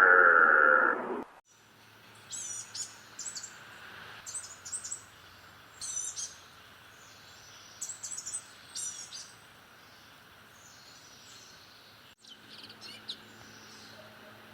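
A loud, drawn-out animal call cuts off about a second in. Then a small bird gives short bursts of high chirps every second or so, over a faint steady low hum; the chirps grow fainter near the end.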